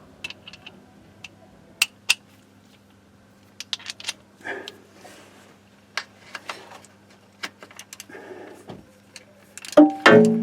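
Metal hand tools and sockets clinking and rattling, with scattered sharp clicks, over a faint steady hum. Near the end, one loud metallic clang that rings on briefly.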